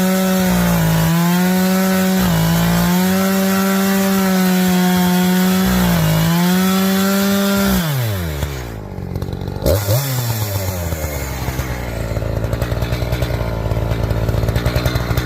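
Two-stroke Echo chainsaw running at full throttle, noodling pine along the grain, its pitch sagging briefly under load three times. About eight seconds in it drops off to idle, is blipped once, then idles with an uneven pulse.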